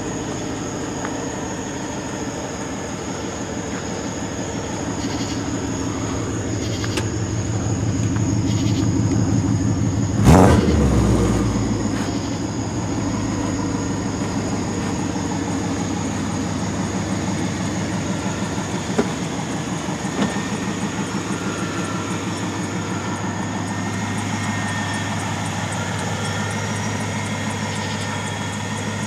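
BMW E63 6 Series engine idling steadily through its exhaust. There is one sharp thump about ten seconds in.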